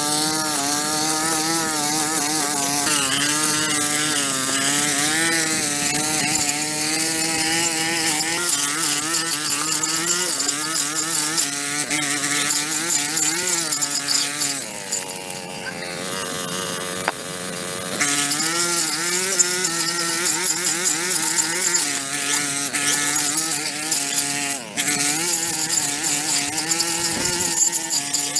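Small gas-engine power tool running continuously, its engine pitch rising and falling as it works under varying load, with a steadier, lower-speed stretch about halfway through.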